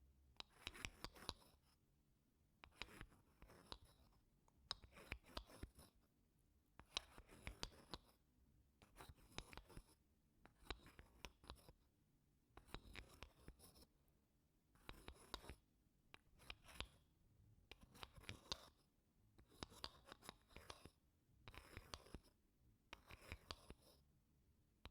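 Wooden spoon scraping across wooden blocks in slow, separate strokes, roughly one every one and a half to two seconds, each a short scrape with a quiet gap after it.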